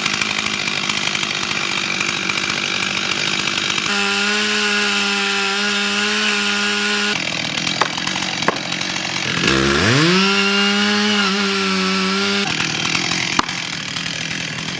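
Chainsaw cutting into a tree trunk at high throttle. Twice the engine note rings out clear and steady, the second time after a quick rising rev about nine seconds in, before it sinks back into the cutting noise.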